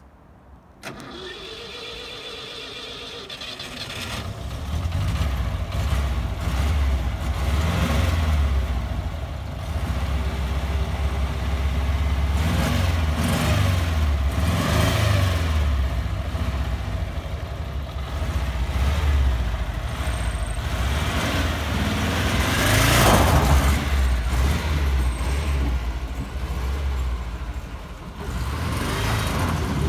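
ZAZ Zaporozhets' rear-mounted air-cooled V4 engine cranked over and catching after a few seconds, then running and pulling the car away, the revs rising and falling. The engine is sluggish, which the owners blame on the V4 not pulling.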